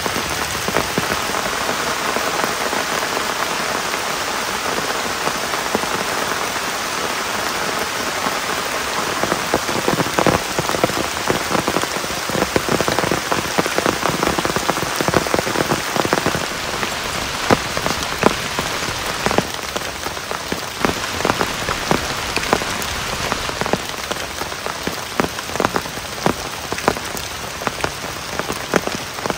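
Steady rain falling on a surface, with many separate drops striking close by, the single strikes standing out more from about a third of the way in.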